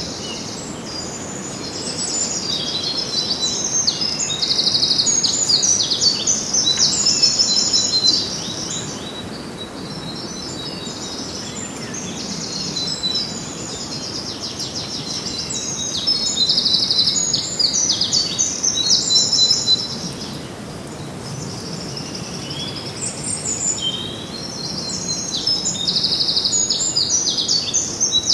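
Several small songbirds singing, with rapid trills and chirps coming in bouts, over a steady background hiss.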